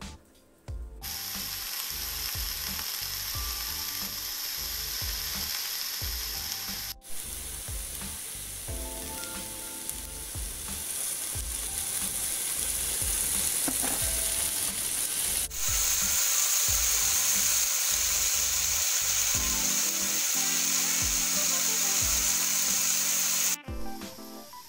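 Sliced carrots and potatoes sizzling in olive oil in a saucepan: a steady, loud hiss, broken by two brief sudden cuts about 7 and 15 seconds in.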